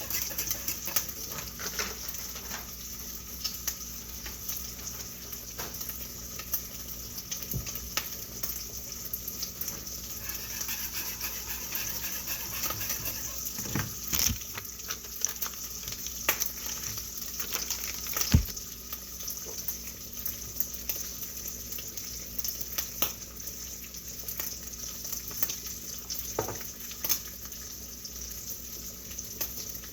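Kitchen cooking sounds: a steady hiss, like food sizzling in a pan or water running, with scattered clinks and knocks of utensils and cookware. The loudest knocks come about 14 and 18 seconds in.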